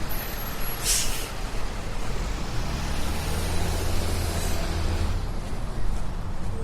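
Street traffic passing, with a heavy vehicle's low engine drone growing strongest in the middle, and a short hiss about a second in.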